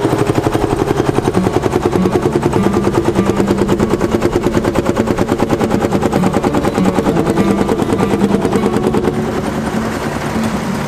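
Massey Ferguson 35X tractor's three-cylinder diesel engine running steadily with a rapid, even exhaust beat.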